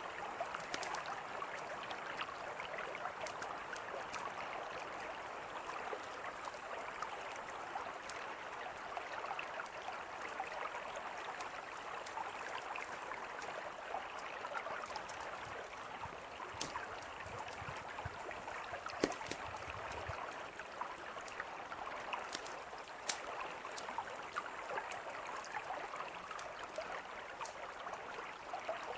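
Mountain river flowing steadily, with a campfire crackling over it in scattered sharp pops, a few louder ones along the way.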